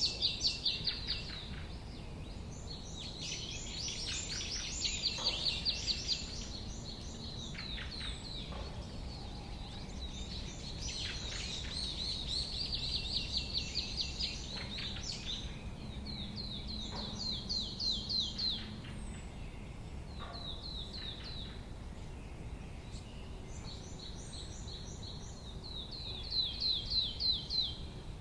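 Songbirds singing in the wild: phrases of rapid, high, repeated trilling notes, each a second or a few seconds long, coming again every few seconds over a steady low background rumble.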